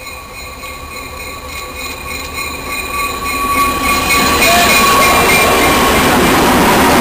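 A red CN diesel locomotive approaching and passing close by, its engine and wheels growing steadily louder and becoming a loud rush from about four seconds in as it goes past.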